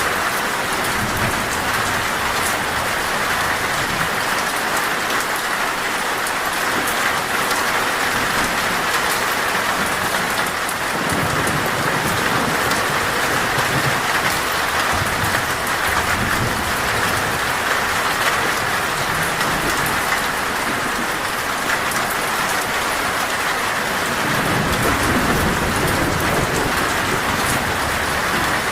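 Torrential rain falling steadily on a metal roof, with a few low rumbles of thunder, the longest near the end.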